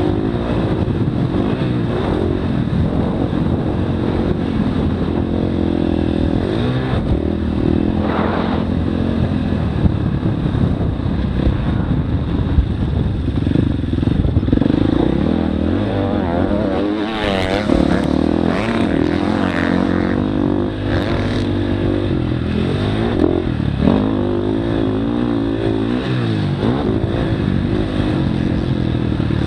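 Motocross dirt bike engine running hard, its pitch rising and falling over and over as it revs up and drops back, with a few short clattering knocks in the middle.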